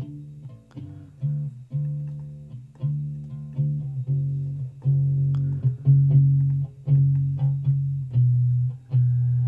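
Recorded electric bass guitar line played back on its own, plucked notes repeating in a steady rhythm, with string noise from the player's fingers audible as small clicks between notes.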